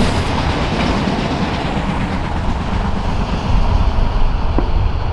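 A train passing close by: a steady low rumble of wheels on rail with a faint click or two.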